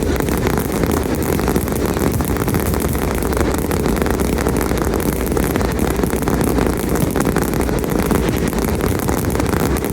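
Continuous fireworks barrage: a steady low rumble packed with rapid crackling.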